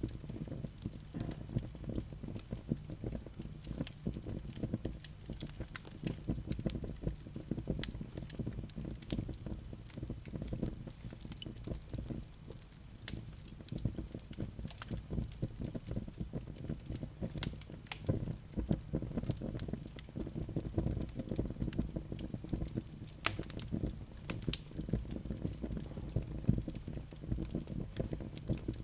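Wood fire crackling in a fireplace: a steady low rumble of burning with many sharp, irregular crackles and pops from the logs.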